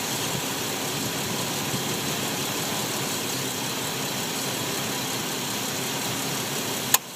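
A 2001 Ford Explorer's engine running steadily at idle. A single sharp click comes just before the end.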